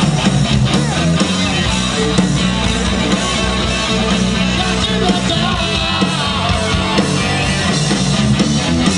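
Heavy rock band playing live and loud, with electric guitar over a full band.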